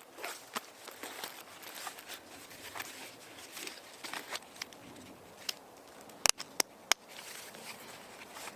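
Scattered light clicks and taps, with three sharp clicks in quick succession about six seconds in.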